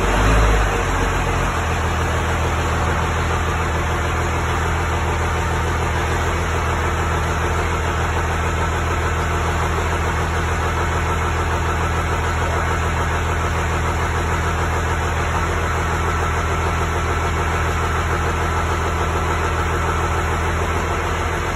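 Large engine idling steadily, after a couple of brief louder blips in the first second and a half, typical of a monster truck engine during load-up.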